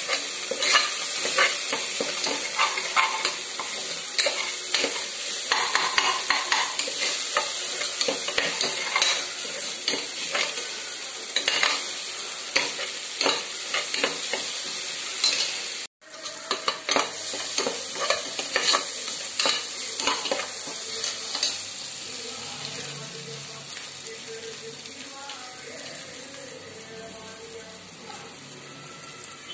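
Chicken pieces sizzling as they fry in a metal pot, with a spoon stirring and scraping against the pot. There is a brief break about halfway through, and the sizzling grows quieter toward the end.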